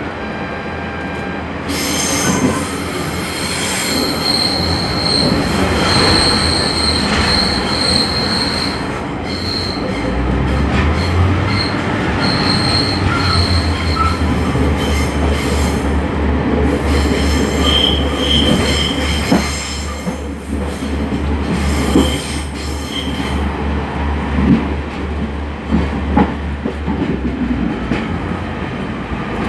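Inside a Class 142 Pacer diesel railcar under way: the wheels squeal in high steady tones, strongest in the first half and again briefly later. A low pulsing rumble from the underfloor diesel engine runs from about a third of the way in until near the end, with a few knocks from the track late on.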